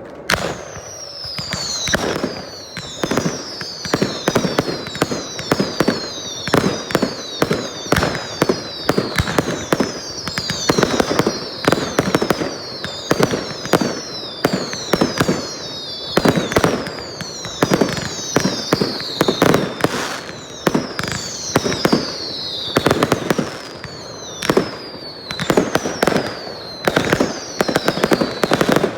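Fireworks display: a rapid, continuous run of sharp bangs mixed with many overlapping whistles, each sliding down in pitch.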